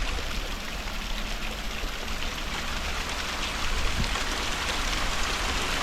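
Small waterfall with a thin dry-season flow: water falling and splashing in a steady hiss, with a low rumble underneath.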